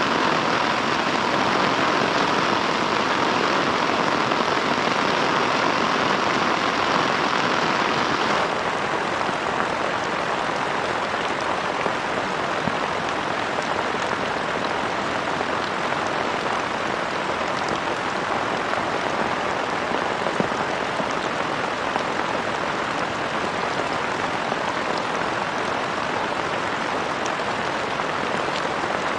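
Steady rain falling. About eight seconds in the sound changes abruptly to a slightly quieter, even patter with scattered drop ticks.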